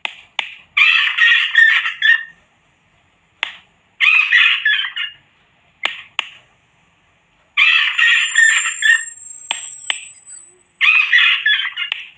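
Rat-repellent recording of harsh animal screeching, repeated in four bursts of about a second and a half each with a few sharp clicks between them. About eight seconds in, a thin, very high whistle tone joins and slowly rises in pitch.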